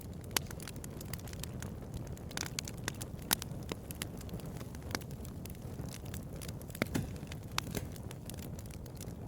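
Bonfire crackling: irregular sharp pops and snaps over a steady low rush of burning, with the loudest pops about three seconds in and again near seven seconds.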